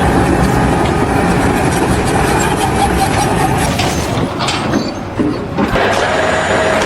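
An engine running steadily. It dips briefly about five seconds in and changes abruptly shortly after.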